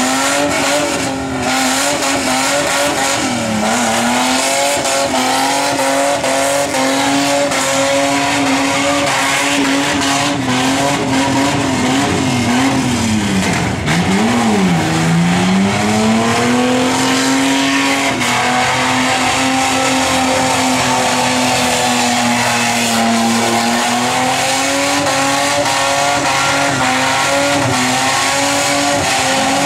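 Ford AU Falcon ute's straight-six engine, five-speed manual, held at steady high revs while its rear tyres spin in a burnout. The revs dip briefly about three and a half seconds in, and drop sharply around the middle before climbing back.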